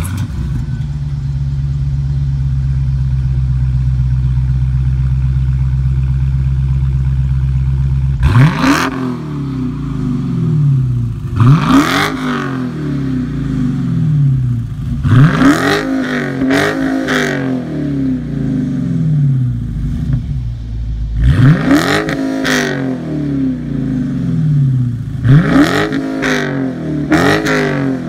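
2015 Dodge Challenger Scat Pack's 6.4-litre V8 catching with a sharp burst, idling steadily for about eight seconds, then revved in a series of quick blips through the stock exhaust, each climbing sharply and falling back to idle.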